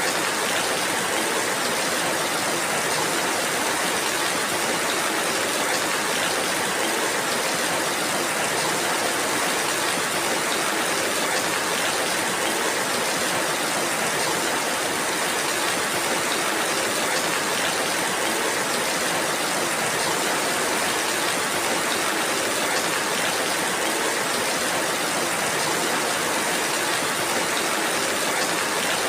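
Steady rainfall: an even, unbroken hiss with no single drops, thunder or other events standing out.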